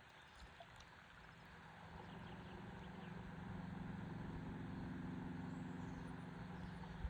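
A faint, steady engine hum that swells over a few seconds and cuts off near the end, over a soft hiss of river water.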